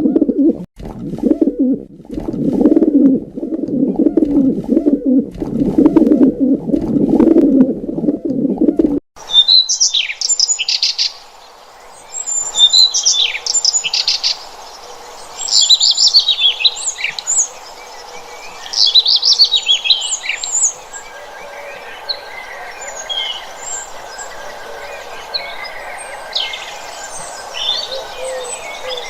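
Bird calls from two recordings in turn: for about nine seconds a low, wavering cooing, then after a sudden change, repeated bouts of high, quick chirping and whistled bird song, each bout a second or two long.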